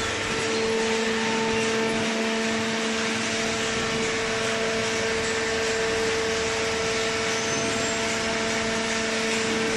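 Two-ram horizontal baler running, a steady machine hum with an even hiss over it.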